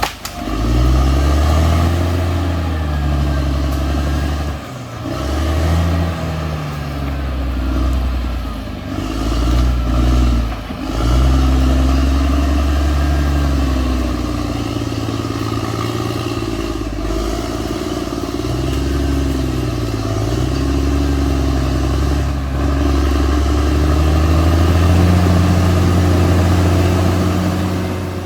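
Caterpillar D6R XL bulldozer's diesel engine working, its note rising and falling again and again as the load changes, with brief drops about five and eleven seconds in.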